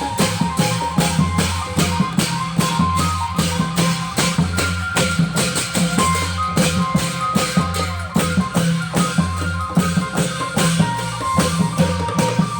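A Thai klong yao long-drum band playing: drums and cymbals strike in a fast, steady beat over a repeating low bass line, with a few higher held melody notes.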